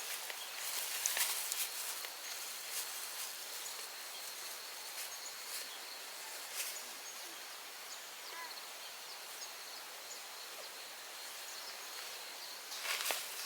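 Outdoor countryside ambience: a thin, steady high-pitched tone with a soft background hiss, a few light clicks and rustles in the first few seconds, and faint bird chirps a little past the middle.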